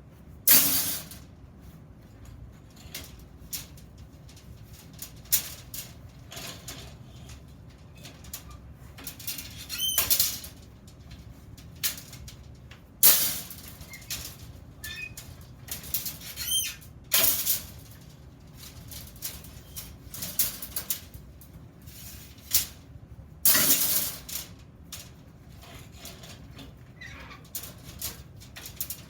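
Iron metalworking: short, sharp bursts of noise several seconds apart, some with a thin high ringing squeal, over a quiet workshop background.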